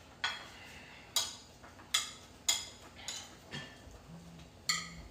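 Metal cutlery clinking against plates, about seven sharp clinks, each with a short bright ring, coming irregularly every half second to a second.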